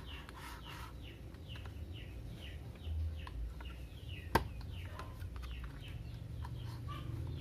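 A bird chirping repeatedly, short falling chirps two or three a second, with one sharp click about halfway through as a small screwdriver pries at the plastic housing of a hair straightener.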